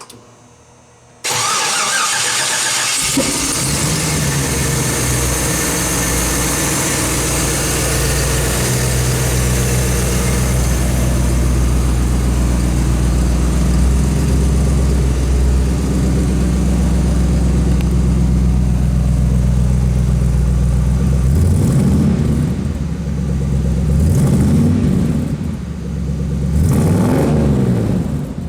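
A 5.3 litre fuel-injected Vortec V8 in a 1956 Buick Special starts about a second in and settles into a steady idle. Near the end the throttle is blipped three times, each rev rising and falling back to idle.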